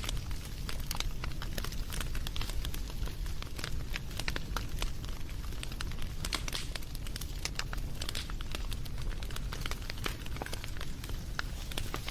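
Wood campfire burning, with frequent irregular crackles and pops over a low steady rumble of the flames.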